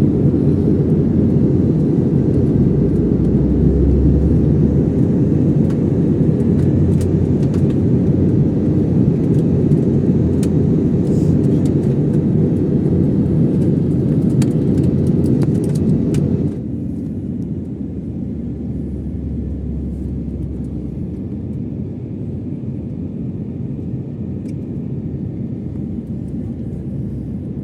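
Steady low rumble from inside a moving vehicle, with no speech over it. About sixteen seconds in it drops in level and turns duller.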